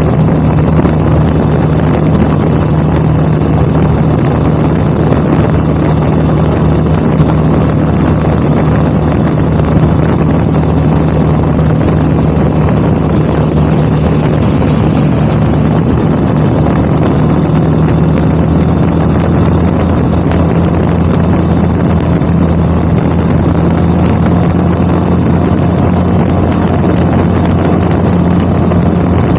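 Motorcycle engine and exhaust running at a steady cruise, with wind rushing over the microphone.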